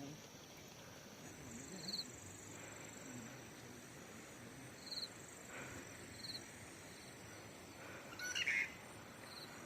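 Quiet outdoor ambience with short high bird chirps every few seconds and a faint insect buzz. A brief, louder call or sound comes about 8.5 seconds in.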